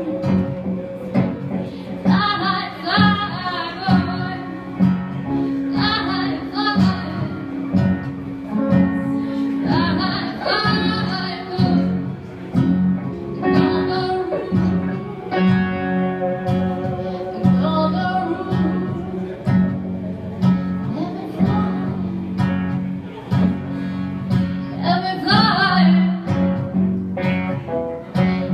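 Live blues band playing, with guitar and a singing voice over a steady bass line.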